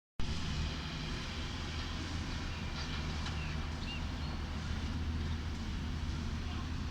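A steady low engine hum over broad street noise, with a few faint short high chirps around the middle.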